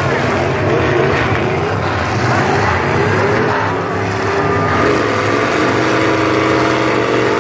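Several demolition derby cars' engines running and revving together, their pitch rising and falling, with a steadier engine note holding in the last couple of seconds.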